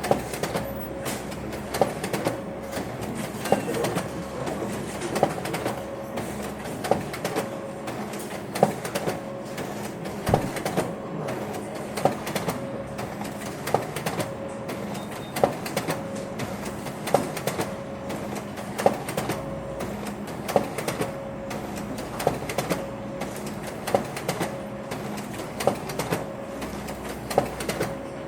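Printer running, with a steady hum and a regular clunk about every second and a half to two seconds.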